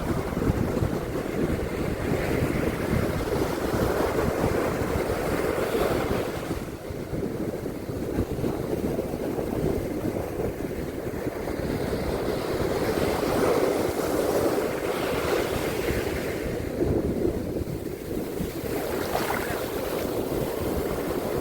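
Ocean surf on a beach, waves breaking and washing up in slow surges every few seconds, with wind rumbling on the microphone.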